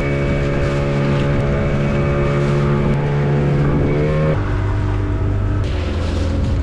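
Boat engine running steadily under way, its pitch dropping abruptly to a lower, deeper note about four seconds in.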